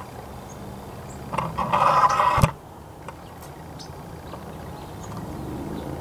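A loud, pitched bird call lasting about a second, starting about a second in and cutting off abruptly with a click, over steady outdoor ambience with faint bird chirps.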